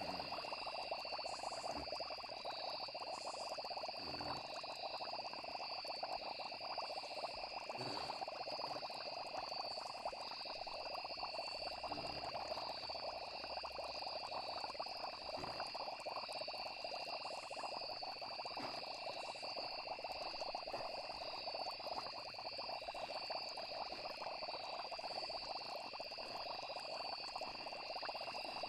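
A steady night chorus of frogs and crickets: continuous high trilling over a dense mid-pitched croaking, with a few soft low thuds now and then.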